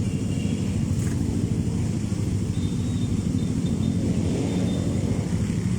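Motorcycle running steadily, a continuous low rumble.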